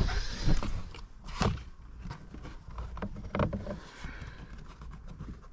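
Handling noises from work on the car: a sharp thump at the start, then scattered clicks and knocks.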